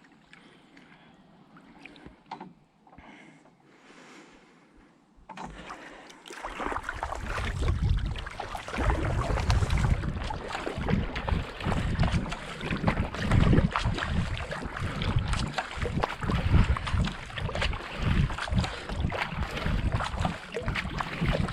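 Kayak paddle strokes in the water at a steady pace, with a low buffet on the microphone, possibly wind, coming with each stroke about once a second. They start about five seconds in, after a quiet opening.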